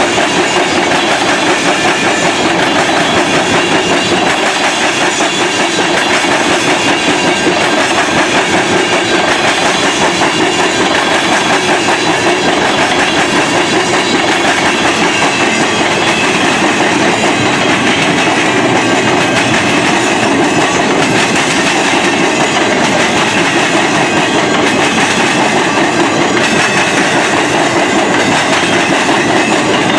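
Freight train cars rolling past, a steady loud rumble of steel wheels on the rails with clickety-clack.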